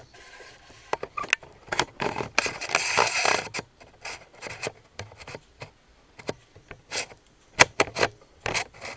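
Handling noise from objects being moved and rubbed at close range: irregular sharp taps and knocks throughout, with a longer stretch of rubbing and scraping about two and a half seconds in.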